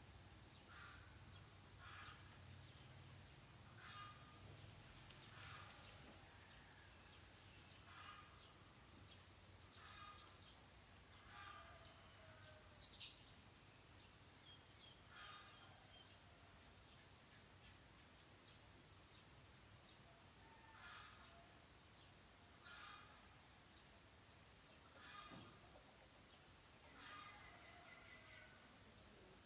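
Insects chirping: a rapid pulsing chirp in phrases several seconds long, broken by brief pauses, over a steady high insect hum, with faint short bird calls in the background.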